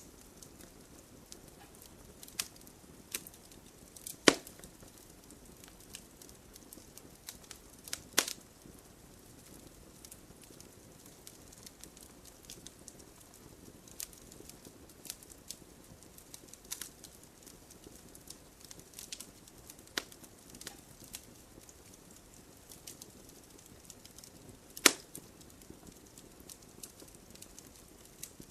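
Wood campfire crackling, with irregular sharp pops over a low hiss; the loudest pops come a little after 4 seconds, near 8 seconds and near 25 seconds.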